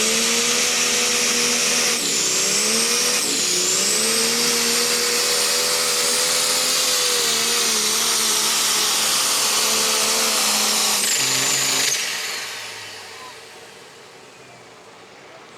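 Super stock pulling tractor's turbocharged diesel engine at full revs under the load of the pulling sled, with a high turbo whine over the engine note. The pitch sags twice in the first few seconds as the engine lugs, then holds high until the engine is shut off about twelve seconds in and the sound dies away.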